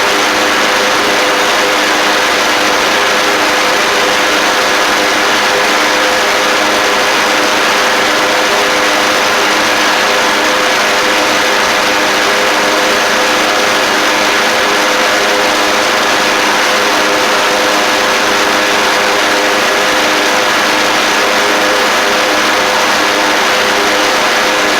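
Craftsman LT1000 lawn tractor's Briggs & Stratton engine running steadily at constant speed on a test run after repairs.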